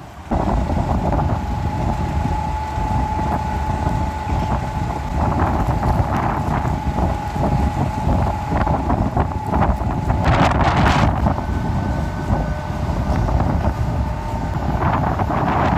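Strong gusty wind buffeting the microphone with a heavy low rumble. A thin, steady high tone runs through the first half, and a brief louder rush of wind comes about two thirds of the way in.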